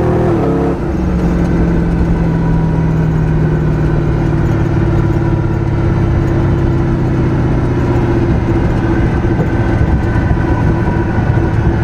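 Turbocharged car engine, its revs dropping about half a second in, then running steadily with a rough, uneven note. The owner reports misfires at high ignition load even without boost.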